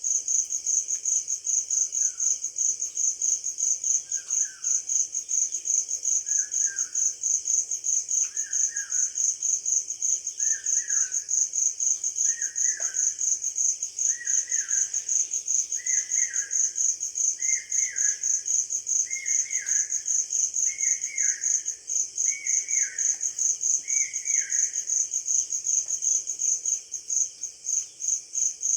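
Crickets chirping in a steady, fast-pulsing high trill. Over them a bird repeats a short falling call about a dozen times, every second and a half or so, growing louder and a little quicker. The calls start about two seconds in and stop a few seconds before the end.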